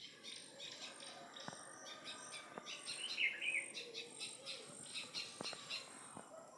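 Birds chirping outdoors, many short repeated high calls, with one louder falling call about three seconds in and a few light clicks.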